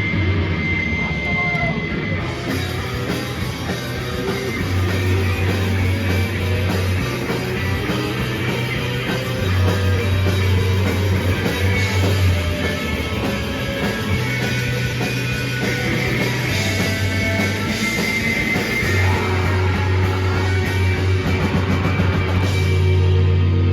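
Live rock band playing loud: guitar, bass and drum kit, with the bass moving between low notes every second or two.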